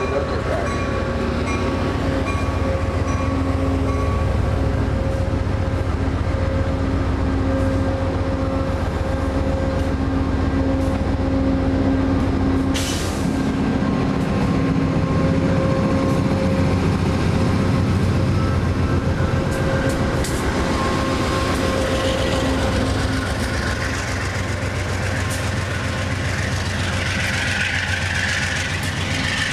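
Stainless-steel passenger train cars rolling past close by: a steady, loud rumble of wheels on rail with a continuous hum. A short, sharp hiss comes about halfway through, and near the end a higher rushing noise comes in.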